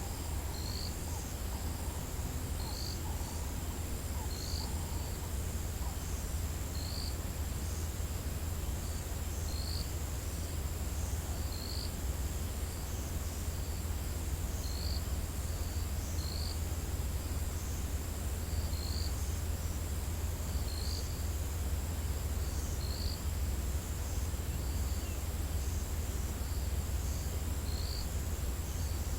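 Crickets or similar insects trilling in a steady, high, unbroken tone, with a short high chirp repeating about every two seconds, over a steady low rumble.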